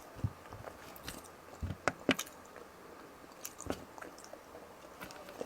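Close-miked eating sounds: chewing and wet mouth smacks, with irregular clicks, as bullet tuna stewed in coconut milk is eaten. The smacks cluster around two seconds in.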